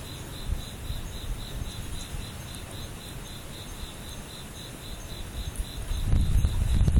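Crickets chirping in a steady, even pulse of about three chirps a second, under typhoon wind buffeting the microphone with a low rumble that eases off and then swells again near the end.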